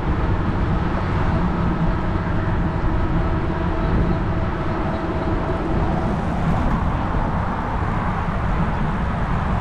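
Steady wind and rolling noise from riding a fat-tire electric bike, picked up by a handlebar-mounted camera, with a faint steady whine that fades about six seconds in.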